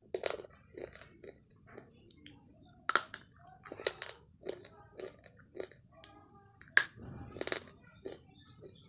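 Slate pencil being bitten and chewed: sharp crunches and snaps at an uneven pace, the loudest about three seconds and near seven seconds in, with quieter chewing between them.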